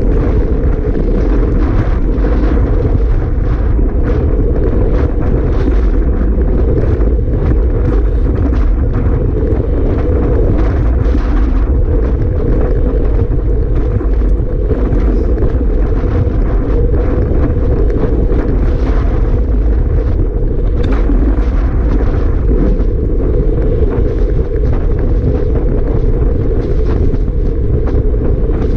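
Strong wind buffeting the microphone: a loud, steady rumbling roar with constant flutter and no letup.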